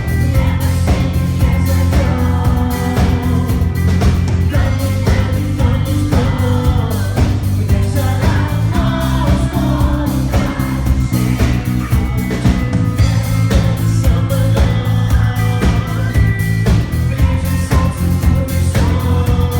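Pop song sung by a male vocal group over a steady beat and heavy bass.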